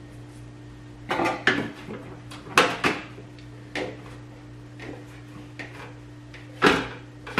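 Small food containers knocking and clattering as they are set onto refrigerator shelves, in a string of separate knocks with the loudest near the end, over a steady low hum.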